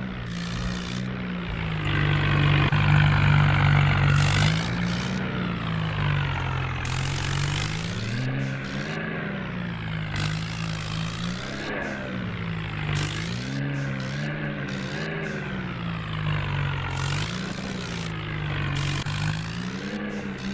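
Tractor diesel engine running under varying throttle, its pitch rising and falling again and again, loudest for a couple of seconds near the start.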